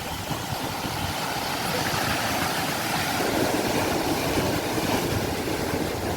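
Sea waves breaking and washing on the shore, a steady rushing that swells from about a second in and stays fuller through the middle.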